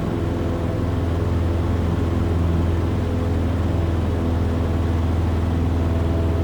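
Cessna's piston engine and propeller running steadily at climb power just after takeoff, a constant low drone with an even hum, heard from inside the cockpit.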